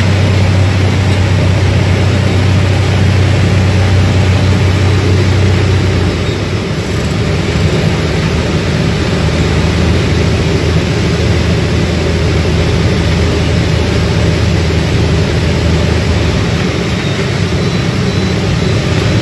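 Small plane's engine droning steadily with a strong low hum and a constant rushing noise. About six seconds in, the low hum changes and the level dips slightly.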